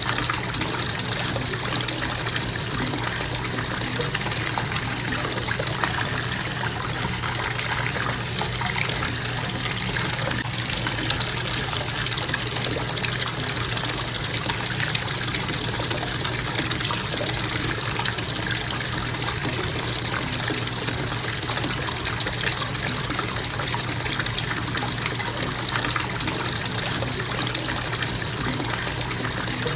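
Bathtub faucet running in a constant, steady stream, the water splashing into the tub.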